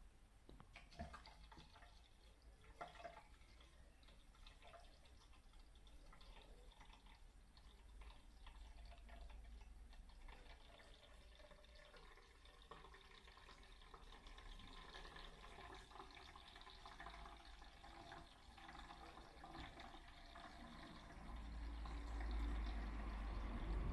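Water running and dripping, faint at first, with a few light clicks, then louder near the end.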